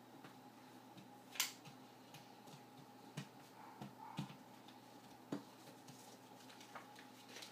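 A sheet of paper being handled and creased while folding a paper airplane: scattered short crackles and taps, the sharpest about a second and a half in, over a faint steady hum.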